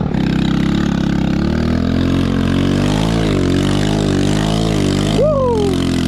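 Chinese 110cc ATV's small single-cylinder four-stroke engine running under throttle, its revs swelling and dipping in the middle of the stretch as it slides. A short falling tone cuts in about five seconds in.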